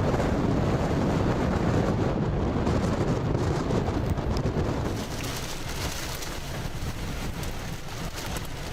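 Heavy wind and rain from a tornado's close passage, with strong wind noise on the microphone. About five seconds in the wind eases, leaving a lighter hiss of rain with many sharp ticks of drops striking.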